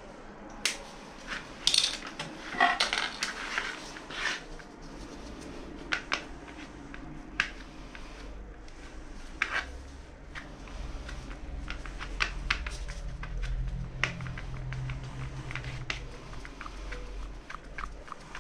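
Scattered clicks, clinks and scrapes of hard objects being handled, tools and containers knocking together, with a low rumble through the middle stretch.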